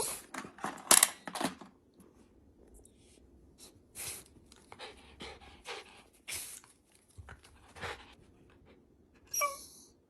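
Shiba Inu dog panting in short, irregular breaths, with light clicking and rustling; a short high-pitched sound comes near the end.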